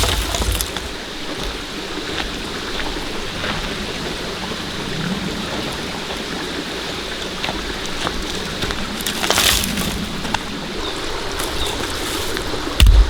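Steady rain falling, with scattered sharper drop hits and a louder swell about two-thirds of the way through.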